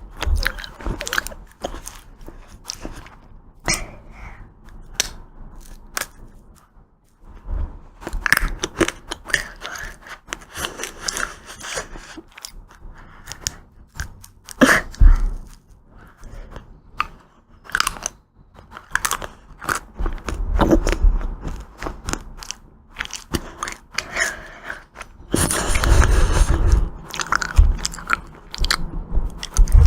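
Close-miked eating of ice cream: crisp bites and crunchy, crackling chewing, with a short lull about a quarter of the way in and the densest crunching near the end.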